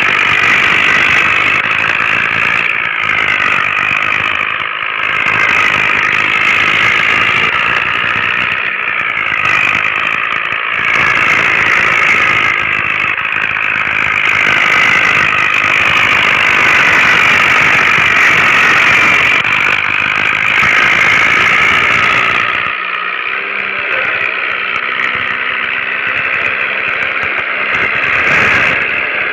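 Mini tractor's diesel engine running steadily, hauling a heavily loaded trolley. The sound changes abruptly about three-quarters of the way through, turning thinner with a steady low hum.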